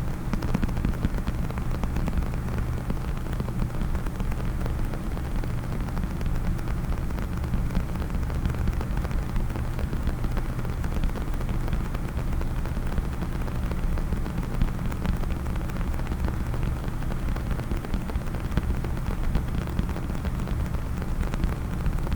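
Fingers tapping and scratching rapidly on a case, a dense, fast patter of small clicks that goes on without a break.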